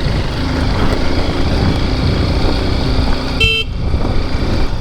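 XR dirt bike being ridden on a rough road, its engine and wind making a steady low rumble. A vehicle horn gives one short toot about three and a half seconds in.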